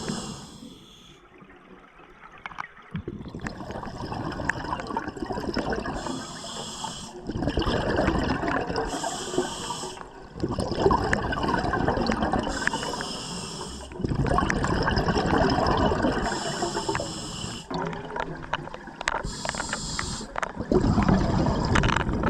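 Scuba diver breathing through a regulator underwater: every few seconds a short hissing inhale, followed by a longer rush of gurgling exhaled bubbles.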